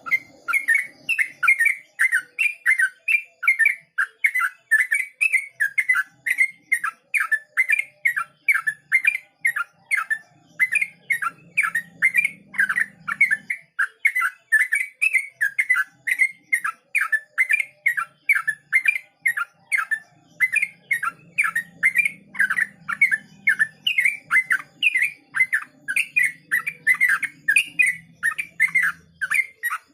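Yellow-vented bulbul (trucukan) singing its rapid 'ropel' song: a long unbroken run of short, bubbly notes, about three a second.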